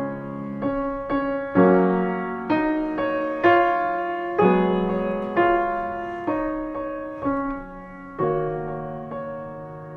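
Background piano music: notes and chords struck about once a second, each ringing and fading before the next.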